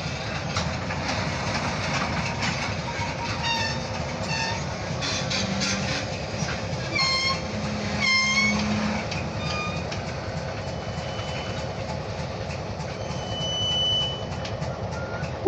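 Short freight train of empty hopper cars rolling past: a steady rumble of wheels on rail with clicks over the joints, two brief high-pitched wheel squeals about halfway through and a thin squeal near the end.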